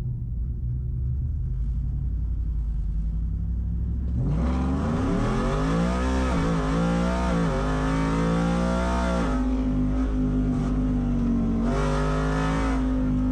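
A drag-racing truck's engine, low and steady at first, then accelerating hard from about four seconds in, its pitch climbing and dipping for about five seconds before settling into a steadier tone.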